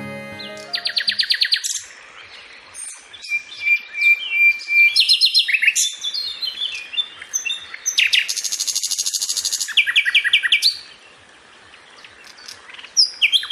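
Music fades out within the first second, then birds sing: fast trills and rapid runs of repeated high chirps, one held whistled note, a quieter gap and another trill near the end.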